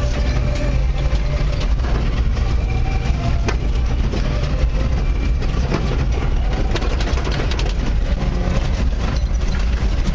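Off-road race truck's engine running steadily under load, heard from inside the cab, with frequent short knocks and rattles throughout.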